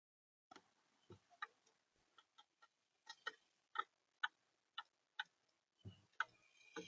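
Sharp taps and clicks on the bird feeder, about two a second, with a couple of duller knocks near the end: a visitor pecking and moving about on the feeder.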